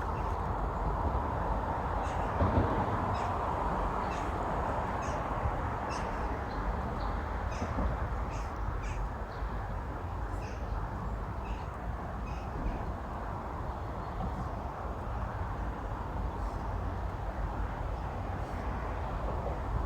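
Birds calling repeatedly in short separate calls, over a steady low background rumble.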